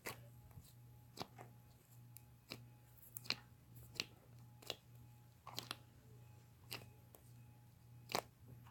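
Sticky cloud cream slime being poked and stretched by hand, giving small sharp clicks and pops, roughly one or two a second, over a faint steady hum.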